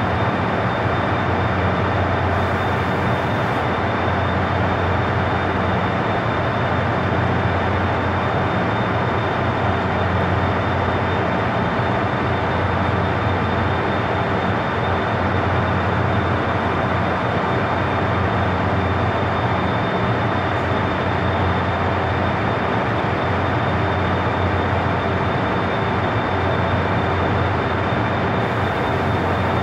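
A stationary KTX-I high-speed train idling at the platform: a steady hum and whir of its onboard equipment, with a thin, steady high whine above it.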